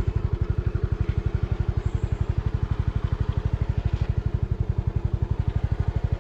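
Motorcycle engine running at a steady low speed, its exhaust beating in a rapid, even pulse of about eleven strokes a second.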